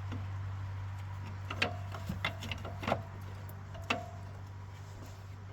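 A handful of sharp metal clinks from tools and bolts being handled, a few of them ringing briefly, over a steady low hum.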